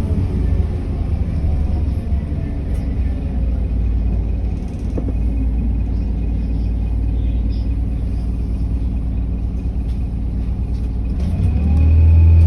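City bus engine and road rumble heard from inside the passenger cabin. The low engine note eases off early on and stays lower while the bus rolls, with a single click about five seconds in. Near the end the engine pulls hard again and its note rises as the bus accelerates.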